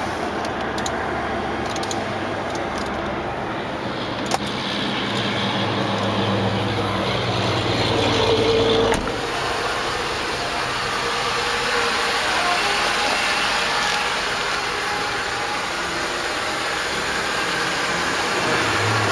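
A 2006 Mercedes-Benz ML500's 5.0-litre V8 running steadily, with a single sharp click about four seconds in and an abrupt change in the sound about nine seconds in.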